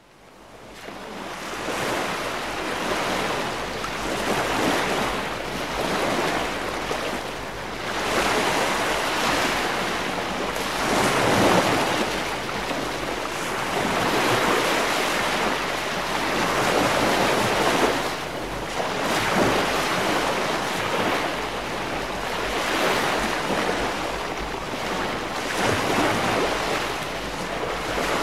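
Sea waves breaking and washing in, a rushing noise that swells and ebbs every few seconds. It fades in over the first couple of seconds.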